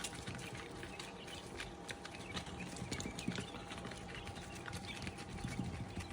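Quail chicks cheeping in short, high chirps amid many quick, irregular clicks and taps, over a faint steady hum.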